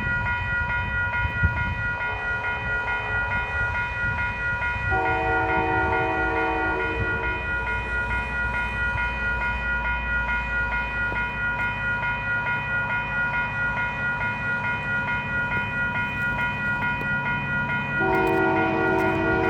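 CPKC Christmas train locomotive sounding its horn, a long chord about five seconds in and again near the end, over the low rumble of the train. A steady high ringing runs underneath.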